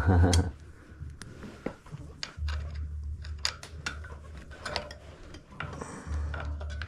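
Scattered clicks and light metallic clinks of small parts and hand tools being handled, with a low rumble twice.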